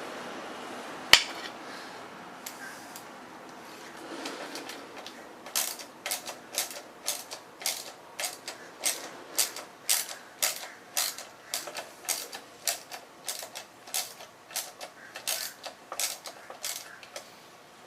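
Socket ratchet clicking in a steady rhythm of short strokes, about two a second, as a fender bolt is backed out. A single sharp knock about a second in.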